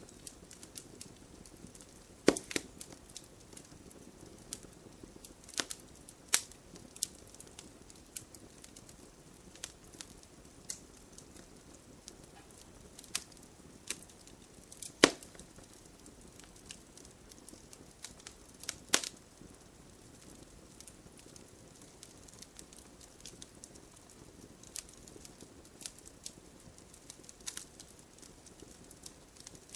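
Wood bonfire crackling: a soft steady hiss under irregular sharp pops and snaps, a few of them much louder, the loudest about halfway through.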